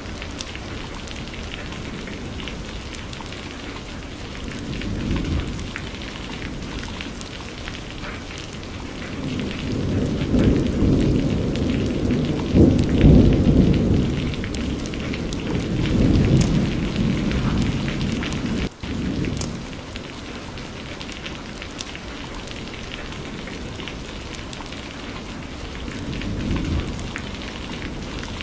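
Steady rain falling, with rolls of thunder rumbling low underneath; the thunder swells several times and is loudest around the middle, with a fainter roll near the end. The sound drops out for an instant about two-thirds of the way through.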